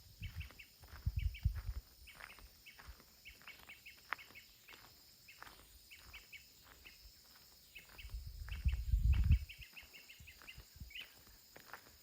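Small birds chirping in quick short notes throughout. Wind buffets the microphone with a low rumble twice, just after the start and again about eight seconds in.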